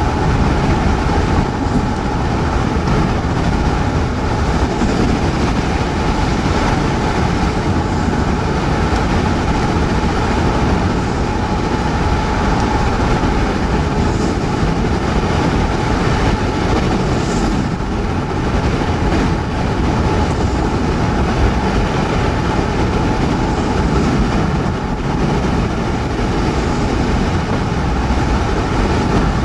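Steady, loud roar of tornado wind mixed with tyre and road noise, heard from inside a moving car.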